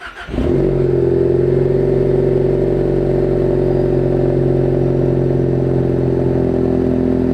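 A 2018 Ford Focus ST's 2.0-litre turbocharged four-cylinder engine, fitted with a COBB catback exhaust, comes in abruptly and then drones at steady revs, its pitch barely changing.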